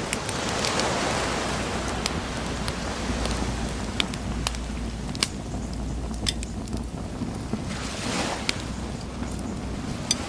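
Wood fire crackling, with scattered sharp pops, over the wash of ocean waves breaking on a shore. A wave swells about a second in and another near the end.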